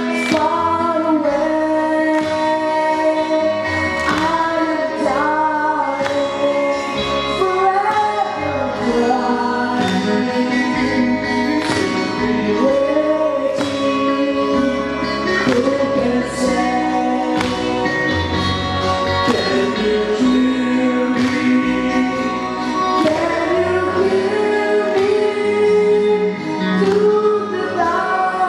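A vocal performance: singing with instrumental accompaniment, sustained sung notes that glide between pitches over a steady backing.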